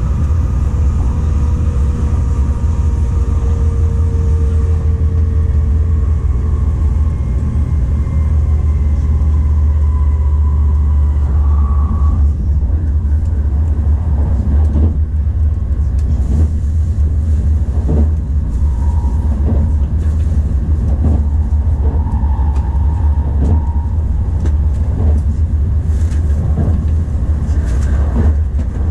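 Tokaido Shinkansen train running, heard inside the passenger car: a loud, steady low rumble. A faint whine falls slowly in pitch over the first half, and there are scattered short knocks in the second half.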